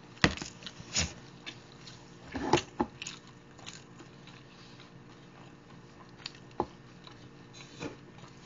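Close-up chewing of food, with a handful of sharp mouth clicks, the biggest cluster about two and a half seconds in, over a steady low hum.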